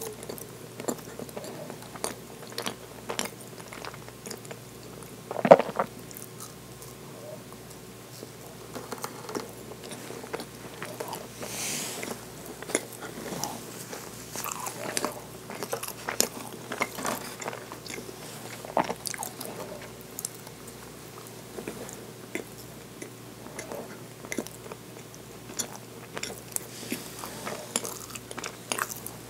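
Close-miked biting and chewing of baked cream cheese tart: irregular soft smacks, clicks and light crunches of mouth sounds, with one much louder sharp noise about five and a half seconds in.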